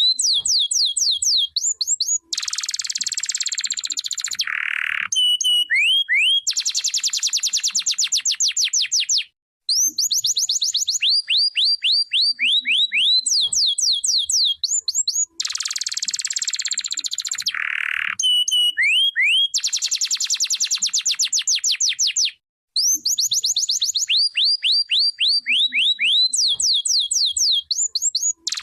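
Domestic canary singing a long song. Runs of quick downward-sweeping notes alternate with buzzy rolls and fast trills, with two brief pauses, about nine and twenty-two seconds in.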